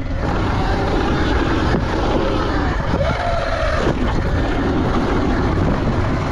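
Dirt bike engine revving up and down while being ridden, with wind buffeting the microphone.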